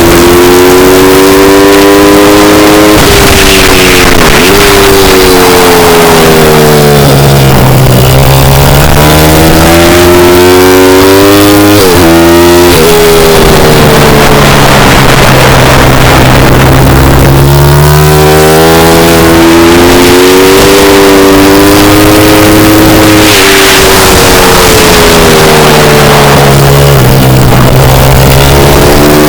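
Pit bike engine revving, its pitch falling and rising again in long sweeps several times. Very loud throughout.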